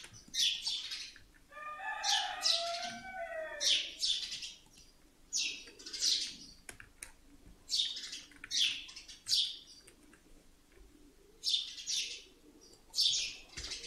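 A bird chirping in short high bursts, roughly one or two a second with gaps, and a longer call of several falling notes about two seconds in.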